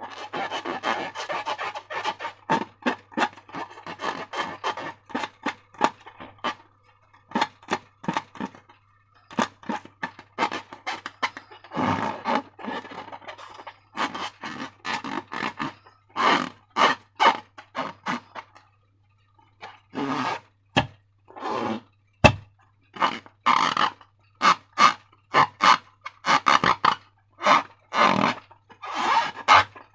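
Slime being squished and worked by hand: irregular wet squelches and sticky clicks, some in quick runs, with a short pause about two thirds of the way through.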